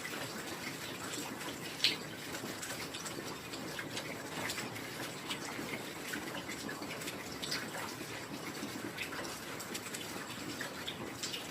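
Heavy rain falling steadily, a dense even hiss dotted with sharper drips and drops, one louder drop about two seconds in.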